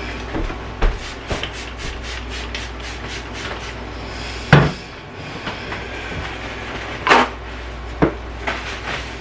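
A cloth wiping a stovetop in quick back-and-forth strokes, about four or five a second for a few seconds, followed by a few sharp knocks of things being handled or set down.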